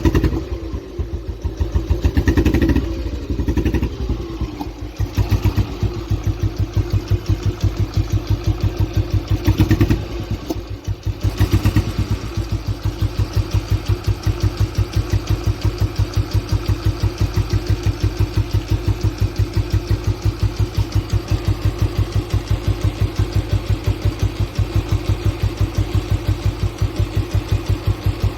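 Royal Enfield Bullet 350 single-cylinder four-stroke engine, revved a few times in the first dozen seconds, then settling into a steady idle of evenly spaced thumps.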